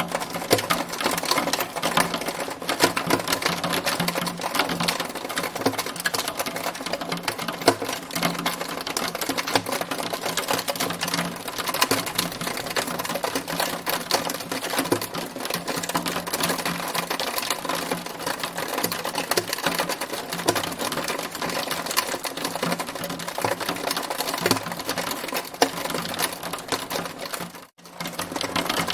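Hail pelting down in a dense, rapid clatter of small clicks. It cuts out for a moment near the end.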